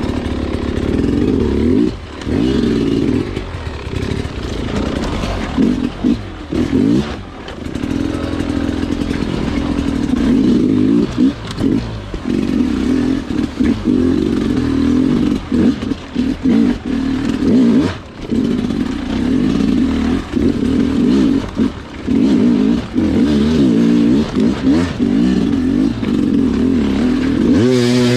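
Sherco two-stroke dirt bike engine ridden hard over technical trail: the pitch rises and falls as the throttle is worked, with short drops every few seconds where the throttle is chopped.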